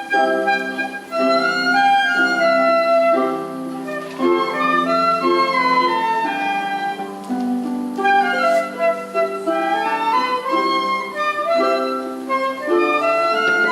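A primary-school concert band playing, with wind instruments holding sustained notes under melody lines that climb and fall.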